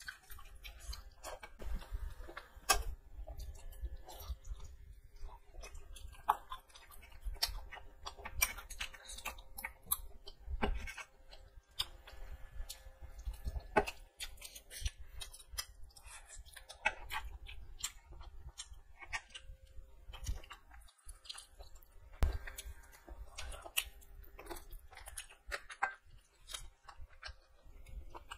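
Close-up eating sounds: wet chewing, lip smacks and irregular sharp clicks of someone eating rice and chicken curry by hand.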